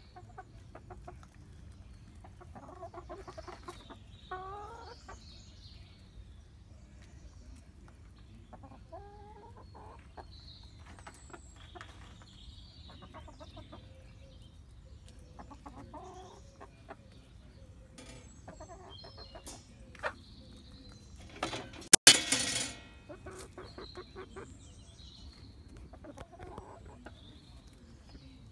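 Hybrid hens clucking and giving short rising calls while their beaks tap at a hanging banana in many small quick pecks. About three quarters of the way through comes one brief loud scuffling burst, the loudest sound of all.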